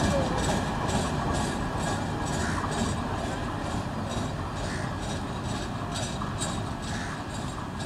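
Freight train's wagon wheels clattering rhythmically over the rail joints, about two clicks a second, as the last wagons and brake van roll past. The clatter slowly fades as the train moves away.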